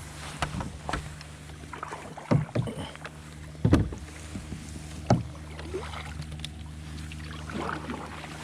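Knocks and water sloshing around a fishing kayak, with about four sharp thumps on the hull, the loudest about halfway through, over a steady low hum.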